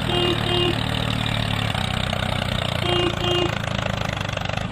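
Small engine running steadily, with two short double beeps: one at the start and one about three seconds in.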